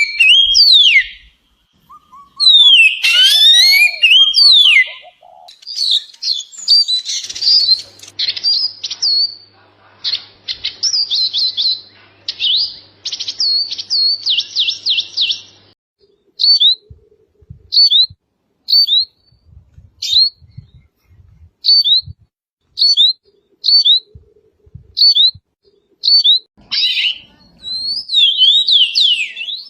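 Songbirds singing: gliding whistled phrases, then a long run of rapid trilled notes, then short downward chirps repeated about once a second, with gliding phrases again near the end.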